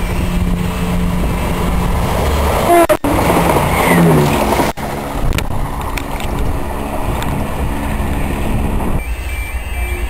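Steady rumble of an approaching train on the line, cut by two short dropouts about three and four and a half seconds in. Near the end a faint repeating two-tone beep joins it.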